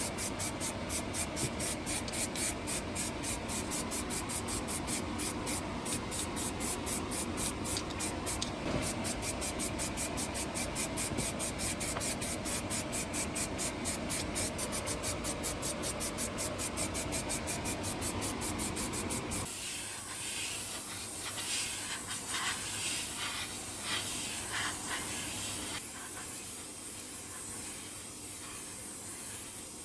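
Rhythmic rubbing or scraping strokes, about three to four a second, change about two-thirds of the way through to a steady hiss like a spray.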